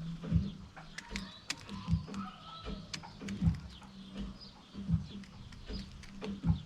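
Garden birds chirping and calling in short high notes and clicks, with a dull low thump about every second and a half.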